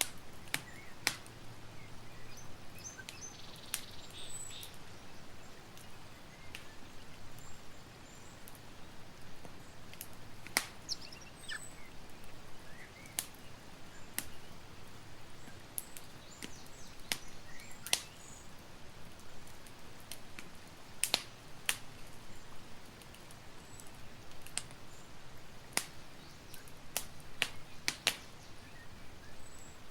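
Wood campfire crackling: irregular sharp snaps and pops, some louder than others, over a soft steady hiss of burning.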